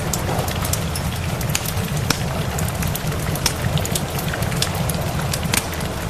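Wood fire crackling, with frequent sharp snaps, over a steady hiss of rain and a low continuous rumble.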